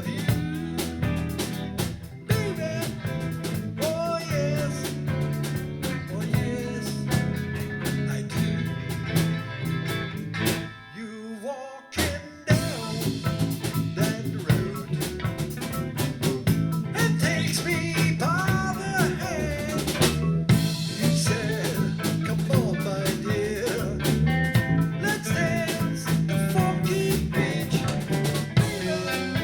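Rock and blues band playing a funky instrumental groove with the drum kit prominent over a steady bass line. About halfway through the band stops for about a second, then comes back in together.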